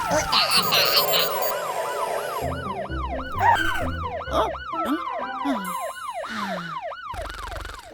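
A cartoon fire truck siren yelping, a fast rising-and-falling wail repeating about three times a second, over background music with a bass line; the siren stops shortly before the end.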